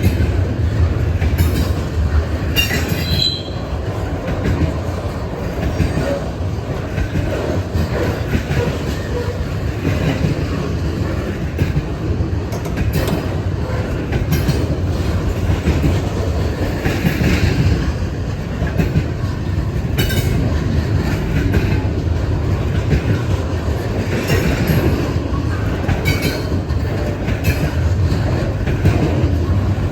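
Norfolk Southern freight train rolling past, a steady low rumble with repeated clicks of wheels over rail joints and a few brief high wheel squeals.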